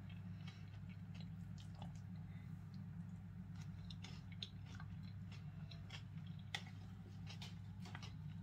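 A person chewing a mouthful of salad with crunchy croutons: faint scattered crunches and mouth clicks, with one louder click about six and a half seconds in, over a steady low hum.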